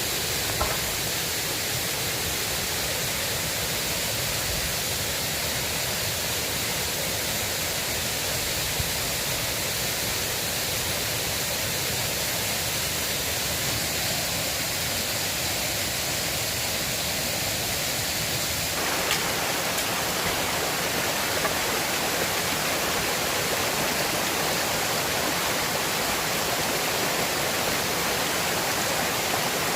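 River water rushing steadily. About 19 seconds in it abruptly becomes fuller and slightly louder.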